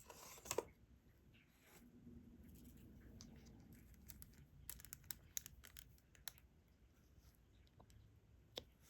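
Diamond painting pen picking up drills and tapping them onto the sticky canvas: scattered faint clicks and taps, a quick cluster of them about four to five and a half seconds in.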